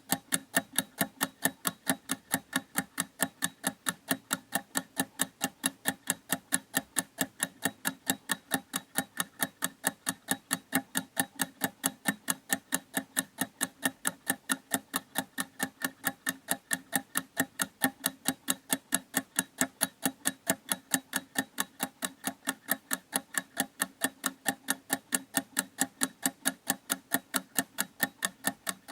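Clock ticking in a quick, steady, even rhythm of several ticks a second.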